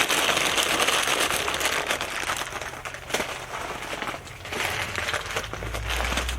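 Crinkling and crackling handling noise, as of material being crumpled, dense at first and thinning to scattered crackles. A low steady rumble comes in near the end.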